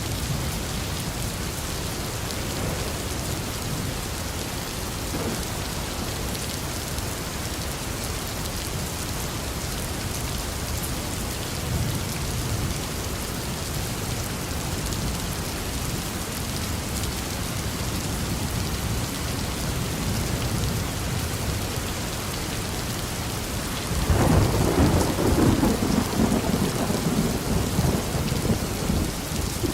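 Steady rain falling, with a rumble of thunder breaking in suddenly near the end and rolling on, louder than the rain.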